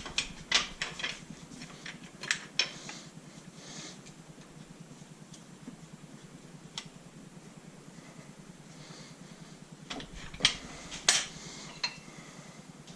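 Engine bearing shells and caps being handled on a bench. They give light, irregular metal clinks and clicks, a cluster in the first few seconds, a lone one in the middle, and another cluster near the end.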